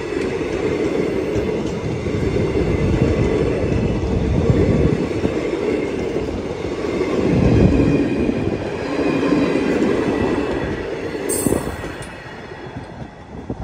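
Indian Railways passenger coaches rolling past close by, wheels running on the rails with a faint high squeal. Near the end the sound drops as the last coach goes by.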